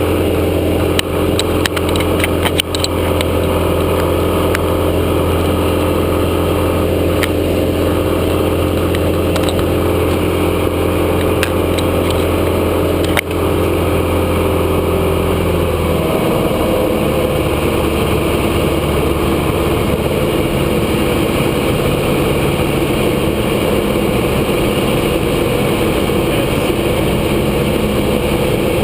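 A Grumman AA-5A Cheetah's four-cylinder Lycoming piston engine and propeller droning steadily in flight. The engine note drops and turns rougher about halfway through, with a few short clicks early on.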